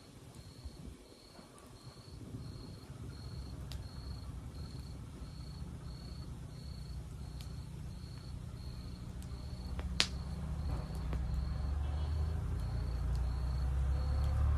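Wood fire burning with occasional sharp crackles and pops, the loudest about ten seconds in, over a high chirp that repeats about twice a second. A low rumble builds and grows louder toward the end.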